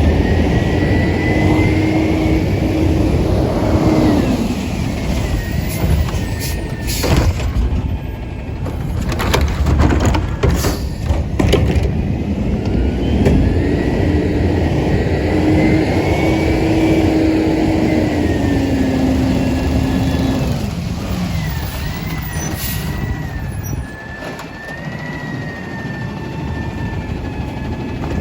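Diesel engine of an Autocar ACX garbage truck revving up, holding a raised speed and settling back twice to drive the hydraulics. Between the two revs come several loud bangs and clatter, typical of the Curotto-Can arm lifting and dumping a cart.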